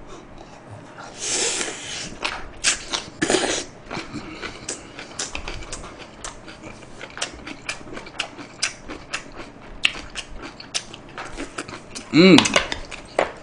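Close-miked chewing of a mouthful of napa cabbage kimchi: a dense run of quick crunchy clicks and wet mouth smacks, a few louder ones in the first few seconds. A short voiced sound from the eater near the end.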